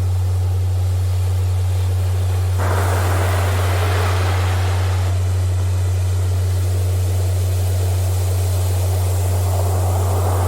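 A steady low hum from a sustained healing-frequency tone, with ocean surf behind it: a wave breaks and washes in about two and a half seconds in, fades, and another builds near the end.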